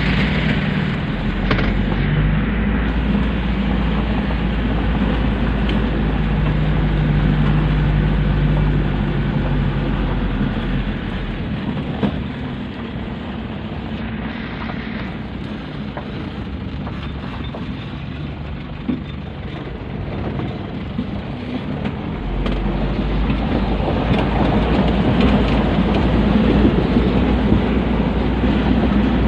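Pick-up dump truck's engine running with a steady low drone, easing off for about ten seconds midway and growing louder again near the end.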